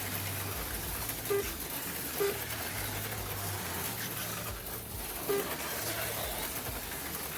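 HO-scale AFX Mega G slot cars running laps on the track, a steady mix of small electric motors and wheels on the plastic track with a low hum that comes and goes. Three short chirps stand out.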